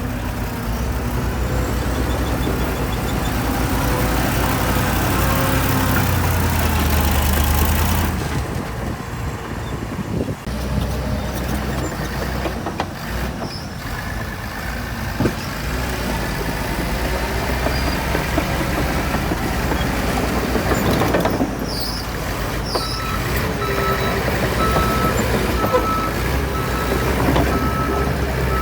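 Heavy diesel earthmoving machinery running and working, with a deep engine rumble that is heavier for the first third, eases, then builds again. In the last few seconds a reversing alarm beeps steadily over it.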